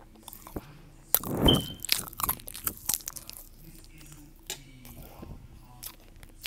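A person biting into and chewing crunchy food: a loud crunching bite about a second in, then a quick run of crackling chews that die down to a few soft crunches.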